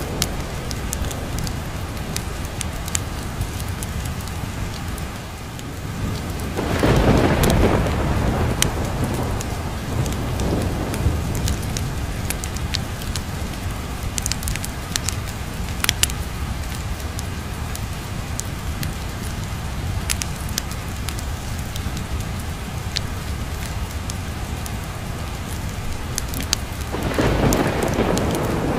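Steady heavy rain with thunder rumbling twice, about seven seconds in and again near the end. Sharp ticks and crackles are scattered through it.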